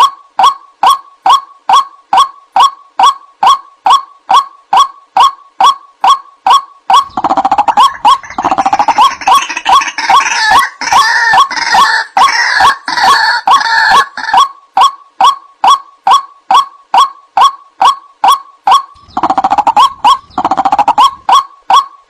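White-breasted waterhen (ruak-ruak) calls, a bird-lure recording: short loud notes repeated about twice a second. For a stretch in the middle and again near the end, several calls overlap into a busier, noisier chorus.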